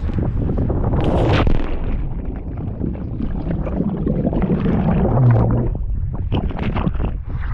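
Breeze buffeting the microphone with a steady low rumble, a brief rushing noise about a second in, and a few sharp knocks near the end.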